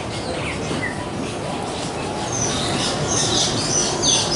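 Many small birds chirping in an aviary, short high calls overlapping and growing busier about halfway through, over a steady background hiss of ambient noise.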